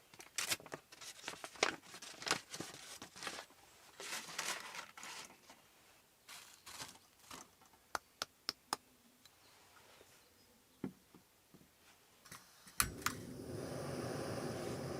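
Packaging crinkling and rustling, with many small clicks and taps of objects being handled. Near the end there is a sharp click, and then a steady hiss starts.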